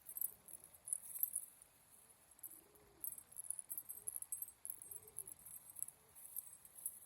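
Roller pigeons cooing softly: a few low, arching coos about two and a half, four and five seconds in, over a faint scratchy rustle.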